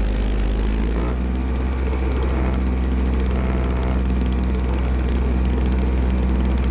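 Small snowblower's engine running steadily, heard close from a camera mounted on the machine. Its pitch shifts slightly about a second in.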